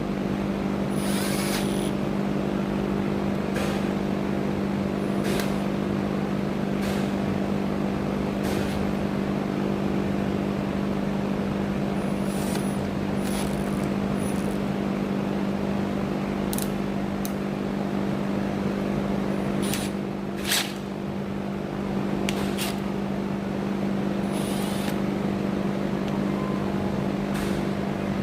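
Cordless drill running steadily with a 9/32-inch bit, enlarging a hole in a steel rifle trunnion; the motor holds a steady hum, easing briefly about twenty seconds in, with occasional light clicks from the bit in the metal.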